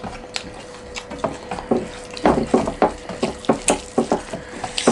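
Close-up eating sounds: irregular wet chewing and mouth smacks with light clicks against a plate, busier in the second half, over a faint steady hum.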